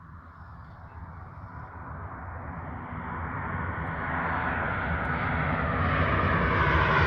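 Ryanair Boeing 737-800's CFM56-7B turbofan engines growing steadily louder as the airliner comes in to land, a rushing jet noise with a faint whine.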